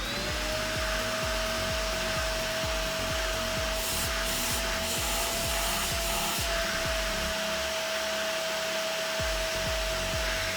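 Iwoly V600 corded stick vacuum motor spinning up to speed at the start, then running steadily with a high motor whine and rushing suction air. Brushing and rubbing sounds come in bursts from about four to six and a half seconds in as the nozzle works over hair on a surface.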